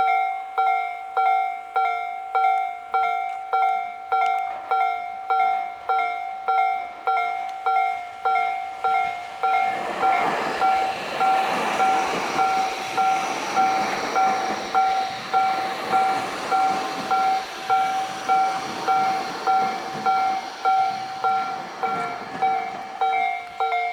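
Railway level crossing warning bell ringing steadily at about one and a half strikes a second. From about ten seconds in, a Tobu 80000-series electric train runs past with a rising rush of running noise. The bell stops near the end.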